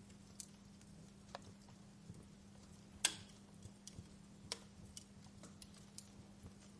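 Wood fire crackling in a fireplace: scattered irregular snaps, with one loud pop about three seconds in, over a low steady hum.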